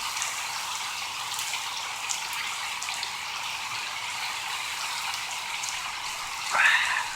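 Steady rain falling, with scattered drops tapping close by. Near the end comes a short, louder burp.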